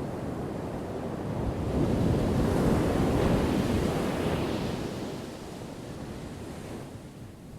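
Ocean waves crashing on a shore: a wave swells about a second and a half in, breaks loudest a couple of seconds later, and washes back out, fading near the end.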